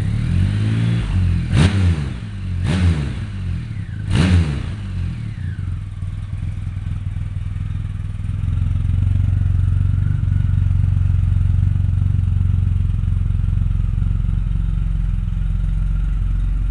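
Triumph Rocket III's 2.3-litre inline three-cylinder engine idling through aftermarket Mad Dog mufflers. It is revved three times in quick succession in the first few seconds, each rev rising and falling back, then settles to a steady idle that gets a little louder about eight seconds in.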